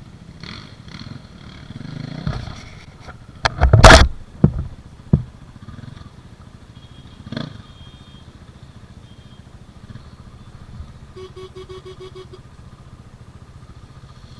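Dirt bike engine running at idle with a steady low throb. About four seconds in comes one loud, short burst of revving and sharp cracks, followed by a few smaller knocks, as a bike spins its wheel on the trail.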